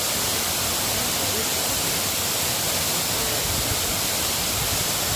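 Rain falling steadily, an even hiss with no separate drops or breaks.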